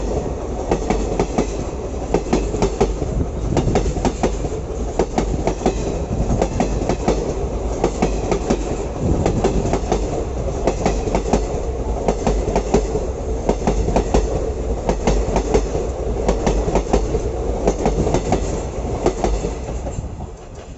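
Passenger train running at speed, its coach wheels clattering rapidly and irregularly over the rail joints above a steady rumble, fading near the end.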